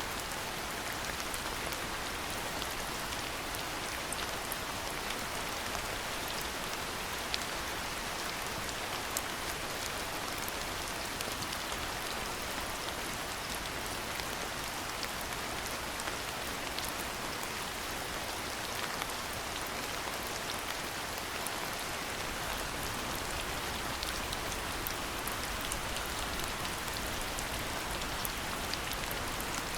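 Steady rain falling, with many small sharp drop ticks scattered through an even hiss.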